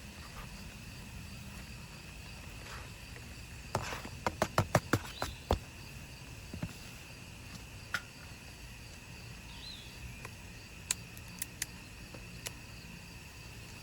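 Insects, likely crickets, chirring steadily in the background. About four seconds in comes a quick run of around eight sharp clicks or knocks, and a few more single clicks come near the end.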